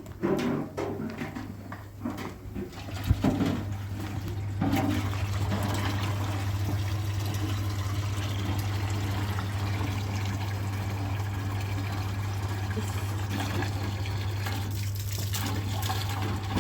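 A few knocks and clatters, then about three seconds in a washing machine's electric motor switches on with a steady hum, and water starts churning and sloshing in the tub as it washes blankets.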